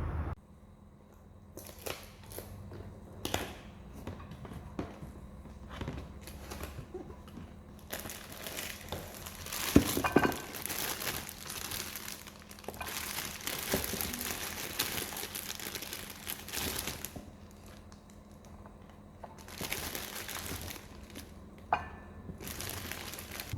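Crinkly wrapping being handled, with irregular bursts of crinkling and a few sharp clicks.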